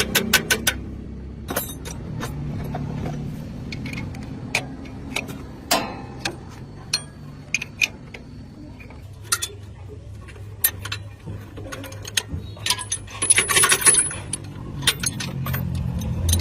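Irregular sharp metallic clicks and clinks over a faint low hum, with a short hissing burst late on.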